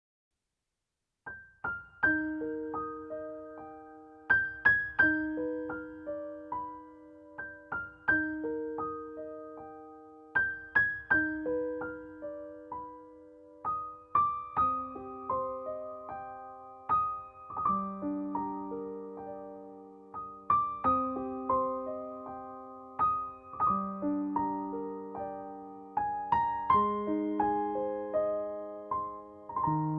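Slow, gentle piano music: soft arpeggiated notes that ring and fade, beginning about a second in.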